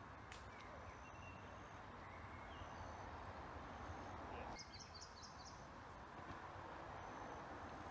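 Faint outdoor ambience: a steady low hush with short, thin, high bird chirps every second or so and a quick run of several chirps about halfway through.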